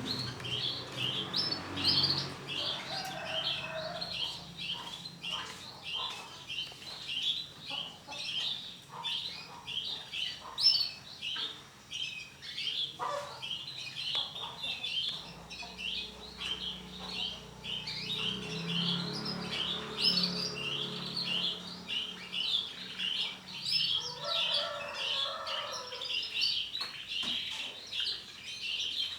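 Canaries chirping: a dense, unbroken stream of short, high chirps and tweets.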